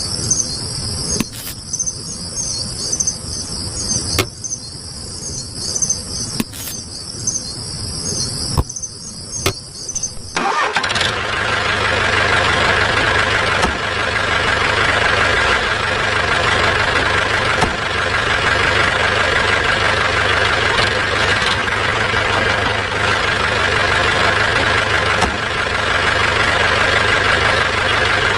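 Crickets chirping in a steady pulsing trill, with a few sharp knocks. About ten seconds in, it cuts abruptly to a steady engine running, with a constant whine over a low hum.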